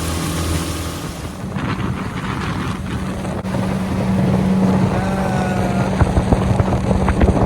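A boat's outboard motor running steadily under way, with wind noise on the microphone.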